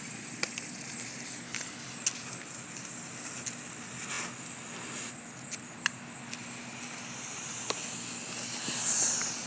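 Small ground fireworks: a few sharp isolated pops, then a hissing spray that builds from about seven seconds in and peaks near the end, as a smoke ball or fountain burns.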